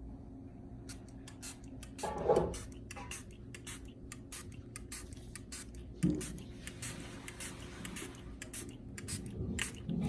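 Handling noises from cleaning an air conditioner: a quick, uneven run of small clicks and light scrapes, with heavier knocks about two seconds in, around six seconds and near the end.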